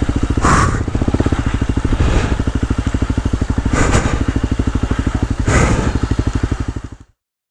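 Honda CRF250L's single-cylinder four-stroke engine running at low speed with an even chugging beat and a few brief surges of noise, cutting off suddenly near the end.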